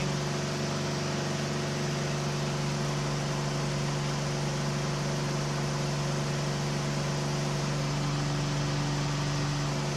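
KR2 light aircraft's piston engine and propeller droning steadily at constant power, heard in the cockpit with a steady rush of air noise.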